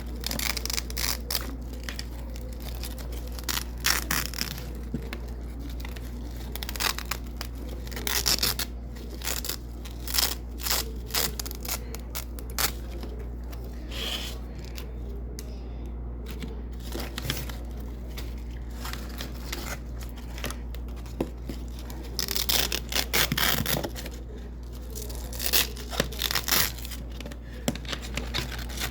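Double-sided Velcro hook-and-loop strips being ripped apart, a run of irregular crisp rips and crackles, with a steady low hum underneath.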